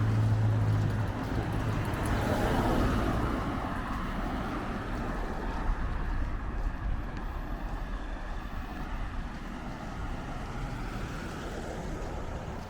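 A motor vehicle passing close by on the street: its low engine hum stops about a second in, and a swell of engine and road noise follows about two to three seconds in. After that the noise settles into a steady haze, with wind on the microphone.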